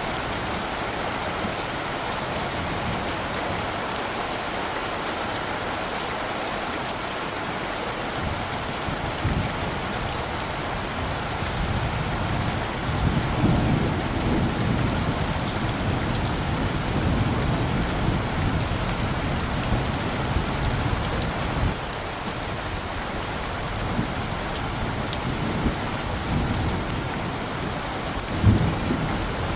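Steady rain falling, with a low rumble of distant thunder that swells through the middle and fades away. A brief low thump comes near the end.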